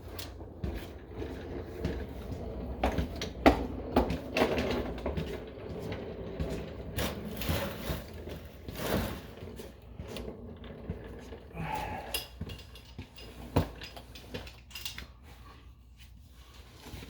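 Hand ratchet wrench clicking in short, irregular strokes, with scrapes and knocks of metal tools on the exhaust fasteners.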